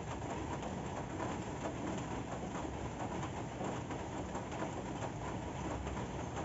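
Steady rain falling, an even wash of noise dotted with many small drop ticks.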